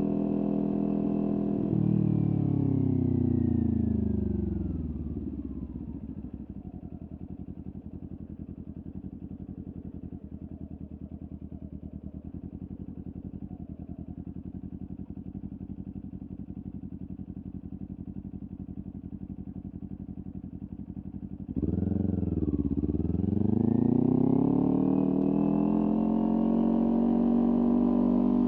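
Kawasaki Ninja 400's parallel-twin engine through a LeoVince aftermarket exhaust. It runs at speed, then the revs fall off as the throttle closes and it idles steadily for a long spell. About three-quarters of the way through it revs up and pulls away, the pitch dipping once and climbing into steady running.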